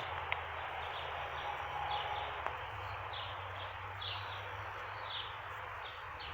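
A bird calling in short, high chirps, about two a second, from about two seconds in. Under it is a steady outdoor hiss and a low hum.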